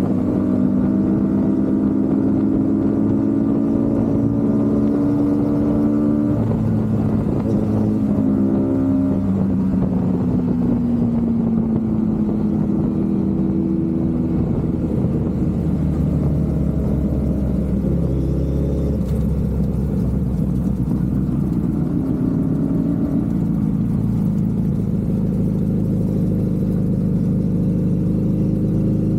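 Suzuki Hayabusa Gen3 motorcycle's inline-four engine running on the move, its pitch climbing over the first few seconds, falling away about ten to fourteen seconds in, then holding fairly steady.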